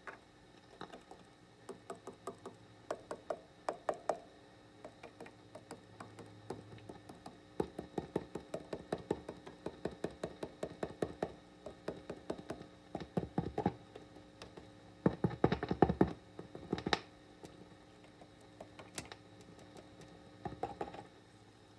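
Tube guitar amp (Fender Deluxe Reverb '68 reissue) sending tapping on the wires and circuit board around its V4 tube socket out through its speaker as runs of sharp clicks and knocks, several a second and loudest in clusters past the middle, over a faint steady hum and hiss. The taps come through because the wiring around V4 is microphonic, the suspected source of the amp's hiss.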